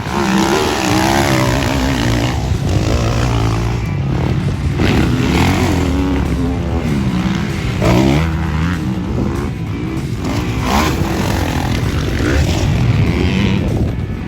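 Motocross dirt bike engine revving hard as it is ridden around the track, its pitch rising and falling again and again as the rider opens and closes the throttle.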